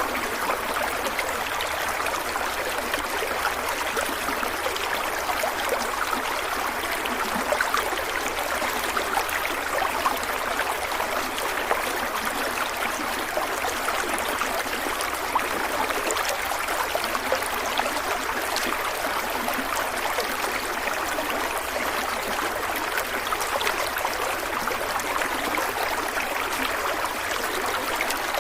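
Stream water running steadily over rocks, a continuous splashing and gurgling rush.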